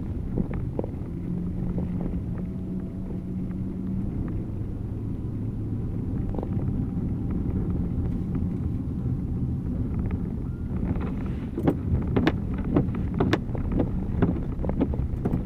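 Car running on a wet, snow-packed road, heard from inside the cabin: a steady low engine hum and tyre rumble, with a string of sharp ticks in the last few seconds.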